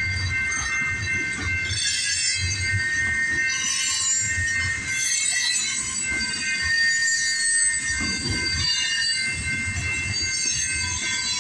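CP Rail freight train cars rolling through a level crossing, their wheels giving a steady high-pitched squeal over irregular low clunks from the wheels on the rails.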